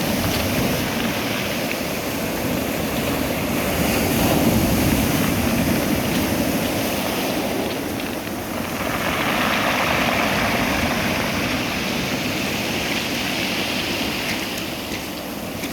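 Sea waves surging and washing in, swelling louder twice.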